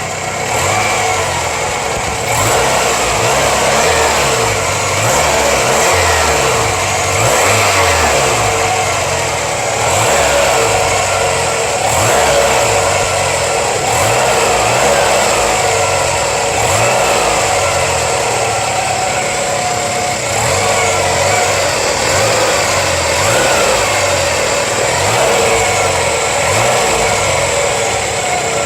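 Toyota Camry's 5S-FE 2.2-litre four-cylinder engine running and being revved over and over, its pitch rising and dropping back every second or two. The owner is unsure whether the engine sounds bad.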